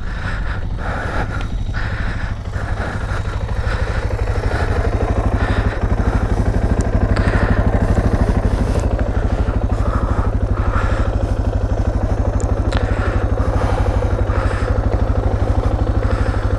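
Suzuki DR650's single-cylinder four-stroke engine running with a steady, even pulse, getting a little louder a few seconds in.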